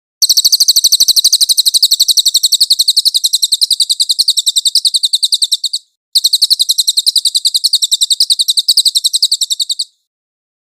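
Songbird training recording (masteran): a bird's rapid, evenly repeated high-pitched chirps in two long trills, broken by a short pause about six seconds in.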